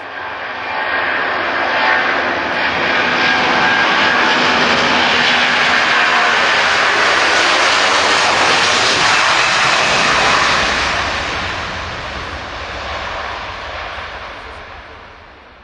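Airbus A330 twin-engine jet airliner at takeoff thrust passing by. The jet noise builds quickly with a whining fan tone at first, stays loud for several seconds, then fades away as a deep rumble.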